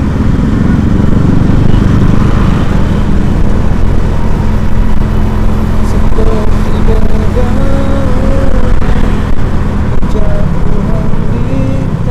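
Loud, steady road traffic: motor vehicles running past, a continuous low rumble.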